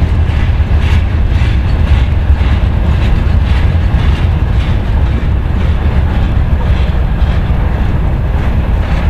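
Freight train wagons rolling through a station: a steady heavy rumble, with wheels clacking over the rail joints at a regular beat.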